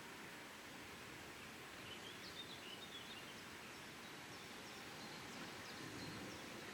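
Faint, steady outdoor background hiss, with a few faint, high bird chirps in the middle.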